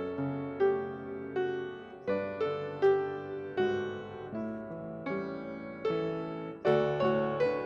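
Piano playing a slow, gentle piece, with notes and chords struck about once or twice a second and each left to ring and fade.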